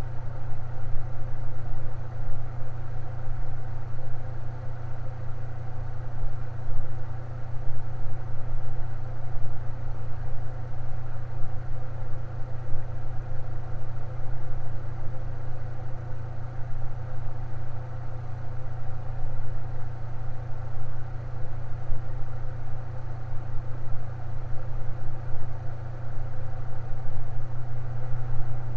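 Electric fan running steadily, with a strong low hum and fainter steady tones above it.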